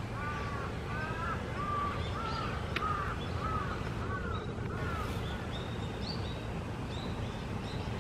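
A bird calling over and over in short arched notes, about two a second, giving way after about five seconds to shorter, higher chirps, over a steady low outdoor rumble.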